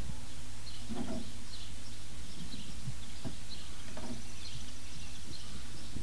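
A small bird chirps repeatedly, short high chirps about every half second, over a steady low background hum. A few soft knocks come in between.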